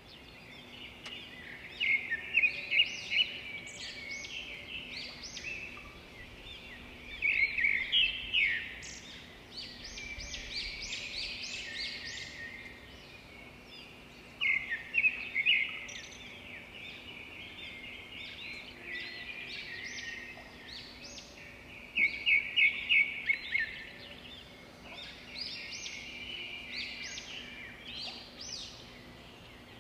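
Small birds chirping and twittering in bursts of quick trills every few seconds, over a faint steady hum.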